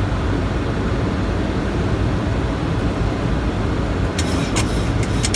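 Steady rushing noise of an airliner in flight, heard inside the cockpit on approach, with a few sharp clicks about four to five seconds in.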